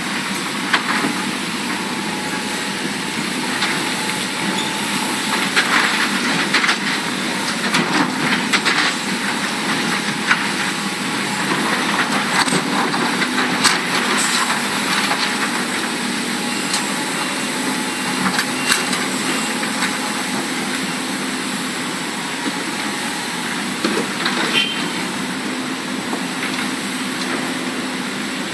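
Large Hitachi Zaxis hydraulic excavators at work: a steady diesel engine drone with frequent irregular clanks and knocks.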